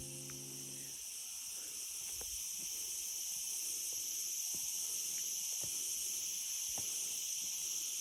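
Insects keep up a steady, high-pitched chorus, with a few faint clicks through it. Background music fades out about a second in.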